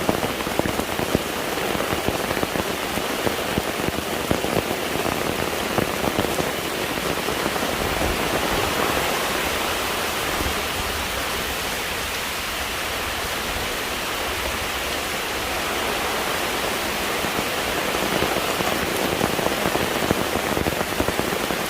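Steady rain falling, with a dense patter of close drop impacts; for a stretch in the middle the patter thins into a smoother hiss before picking up again near the end.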